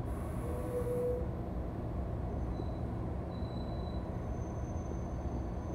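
Steady low rumble of an NJ Transit Multilevel coach's wheels on the track, heard from inside the car as the train runs in toward its station stop. A brief tone sounds in about the first second.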